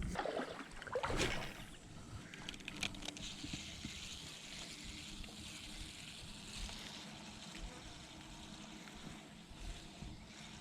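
Creek water trickling and running steadily, with a few short knocks and splashy sounds in the first second or so.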